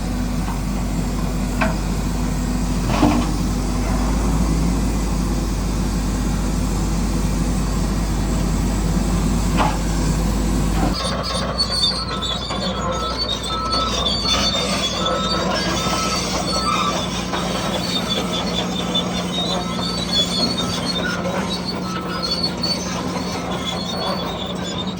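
Bulldozer running steadily with a few sharp clicks. After a cut about eleven seconds in, its tracks and running gear squeal and screech over a steady hum.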